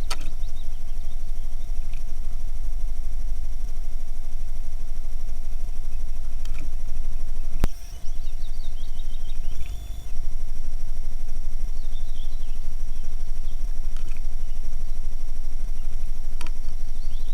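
Steady low rumble outdoors, with faint high bird chirps every few seconds and a few sharp clicks.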